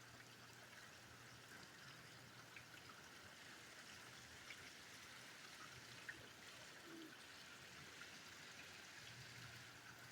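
Faint, steady rain falling, an even hiss with tiny scattered drop ticks.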